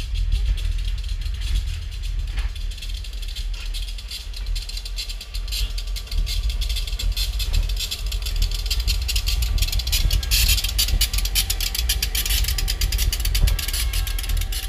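Railroad cars rolling past: a steady low rumble with dense clattering and rattling from the wheels and running gear, busiest from about ten seconds in.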